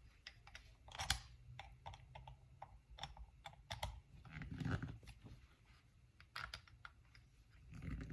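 Scattered light clicks and taps of a screwdriver and small metal parts while the screws on an Andis Master hair clipper are snugged down, with a soft handling rustle about halfway through.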